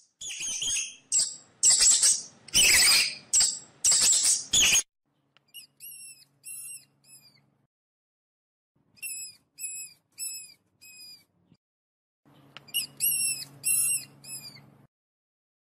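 Guinea pigs squealing: loud, harsh squeals through the first five seconds, then runs of short, high-pitched whistled wheeks in groups of four or five.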